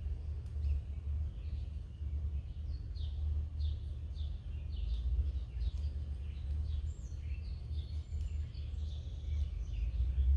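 Small wild birds giving many short, quick chirps, each falling in pitch, over a steady low rumble.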